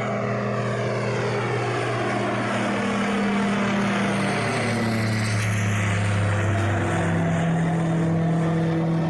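Propeller airplane flying overhead with a steady engine drone that drops in pitch around the middle as it passes.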